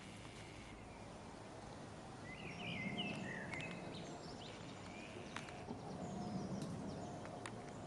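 A bird gives a quick run of short chirps about two to three seconds in, with a few fainter ones later, over steady outdoor background noise.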